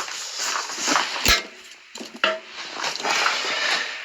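Loose parts and tools being handled and set down: rustling with a few sharp knocks, the loudest about a second in.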